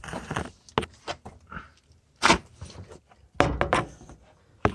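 Irregular handling noise: a few loud knocks and thumps with scraping and rustling in between.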